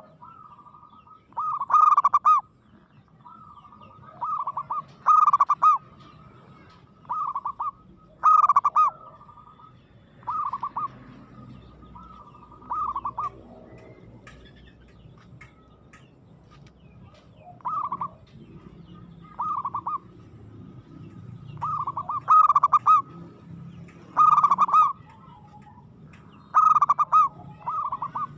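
Zebra dove (perkutut) cooing in short repeated phrases every one to three seconds, some phrases loud and others fainter.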